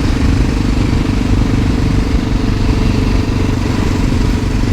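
A 1988 Honda NX650 Dominator's single-cylinder four-stroke engine running at a steady speed while riding, with wind rush over it.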